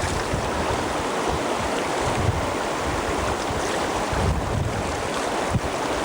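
Flowing river water, a steady rush, with wind buffeting the microphone in irregular low gusts.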